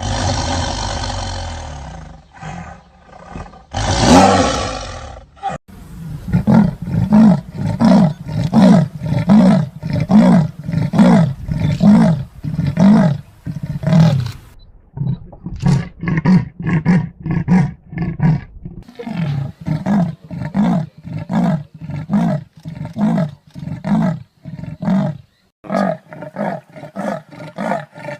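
Big cats calling: a long roar at the start and another about four seconds in, then long runs of rhythmic grunting roars, about two a second, in several clips separated by short breaks.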